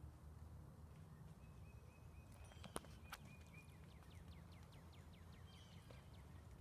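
Faint outdoor ambience with a low rumble. About a third of the way in, a bird sings a quick run of descending chirps, with two sharp clicks among them.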